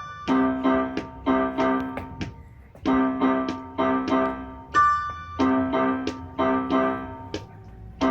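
Piano music: a steady pattern of repeated struck chords, with a brighter high note ringing out about five seconds in.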